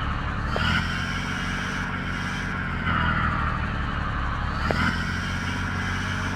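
Mercedes truck driving: a steady engine drone with road noise that swells and eases every few seconds. There is a short click about half a second in and another near five seconds.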